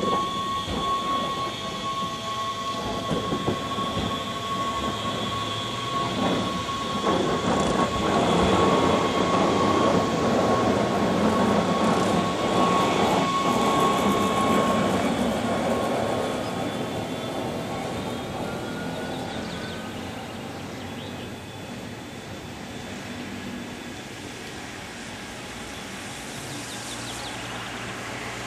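Wengernalpbahn narrow-gauge electric train pulling out and running past close by: rumbling wheel and running noise with a steady high-pitched whine. It is loudest about halfway through, the whine stops, and the noise fades as the train draws away.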